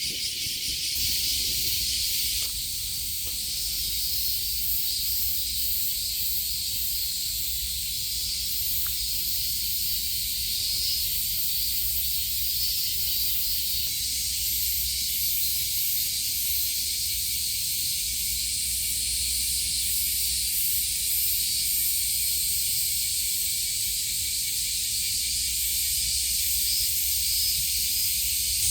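Chorus of cicadas singing: a dense, steady high-pitched buzz with a fast shimmering pulse at the top.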